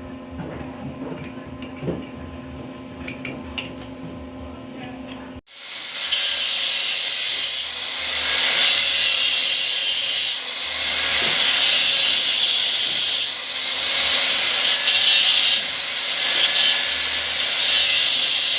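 A loud, fluctuating hiss that cuts in abruptly about five seconds in, after a quieter stretch with a low steady hum and a few faint clicks.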